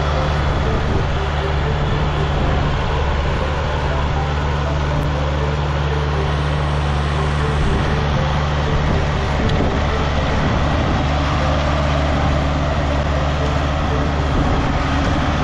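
A vehicle engine running steadily at a constant speed, with a loud, even hum and no change in pitch.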